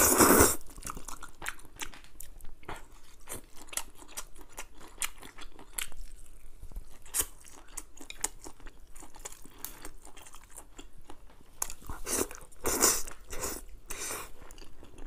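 Close-miked eating sounds of a person chewing and biting skewered crayfish tails and noodles, with many small sharp wet mouth clicks. Louder bursts come right at the start and again about twelve to thirteen seconds in.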